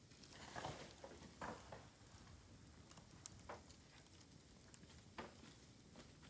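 Bamboo fire crackling faintly: scattered small snaps and pops, several close together in the first two seconds, then single ones spaced a second or two apart.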